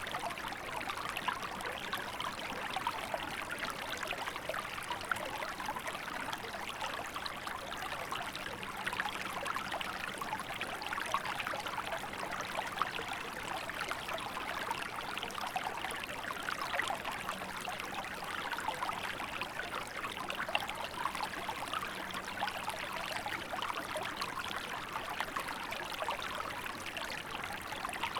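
Small river running steadily over its bed in winter, an even babble and trickle of water.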